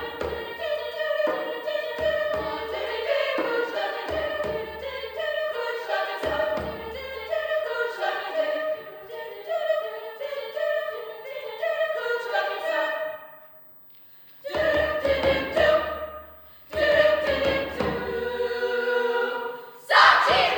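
Mixed choir singing, breaking off briefly about thirteen seconds in, then closing on two final sung phrases. Right at the end the audience bursts into cheering and shouting.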